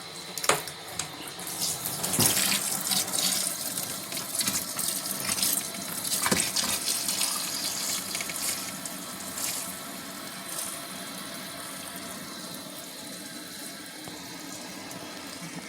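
Water running and splashing in the tub of a portable twin-tub washing machine, busy and irregular in the first half, then settling to a steady rush.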